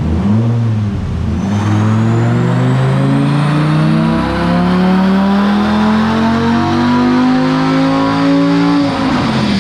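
Gen 5 Dodge Viper GTS's 8.4-litre V10 on a chassis dyno: two quick throttle blips, then a wide-open-throttle dyno pull with the engine note rising steadily for about seven and a half seconds. Near the end the throttle closes and the revs fall away.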